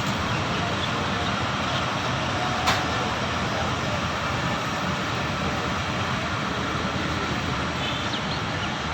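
Steady rushing rumble of a train running past on the rails, with no horn, and one sharp click about two and a half seconds in.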